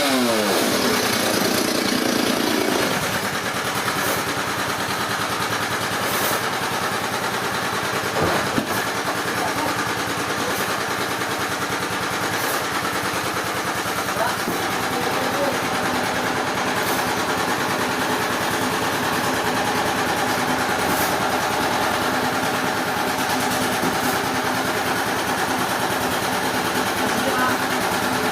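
A chainsaw's engine winds down in pitch from full throttle at the start, then an engine keeps running steadily at a low, even speed with a dense mechanical noise.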